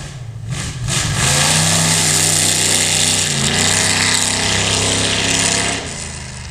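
Car engine revved hard and held at high revs for about five seconds, with a brief dip in pitch midway, then dropping back to a lower idle.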